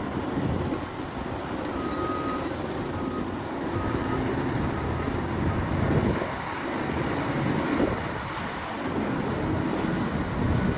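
Large diesel mining excavators working, engines and hydraulics running under load, with the engine note swelling a few times. Faint short beeps come a few times a couple of seconds in.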